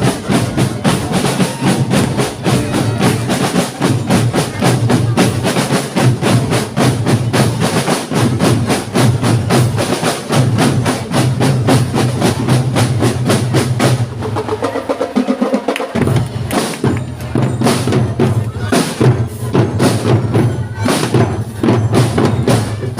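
Marching drum band playing rapid snare and bass drum beats. About fourteen seconds in the drumming thins for a couple of seconds, then full playing resumes.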